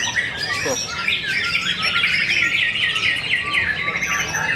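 Many caged songbirds singing at once at a songbird contest: a dense, overlapping chorus of fast chirps and trills.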